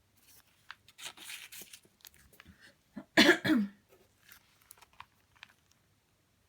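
Light rustling and clicking of paper and plastic sleeves being handled, then a person coughs about three seconds in, the loudest sound.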